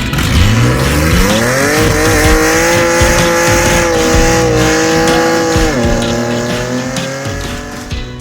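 Monster truck engine revving up, held at high revs for several seconds, then dropping back sharply about six seconds in, with music underneath.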